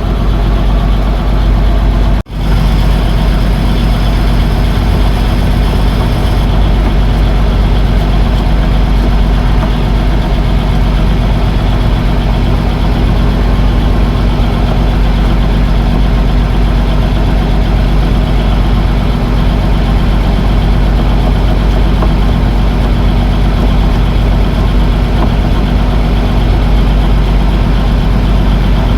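Boat engine running steadily with a constant low drone. The sound cuts out for a split second about two seconds in.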